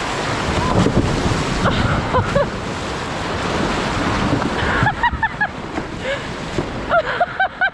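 Loud, steady rush and splash of waterfall water, with wind buffeting the microphone. From about five seconds in, a quick series of short, high squeaks sounds over the water.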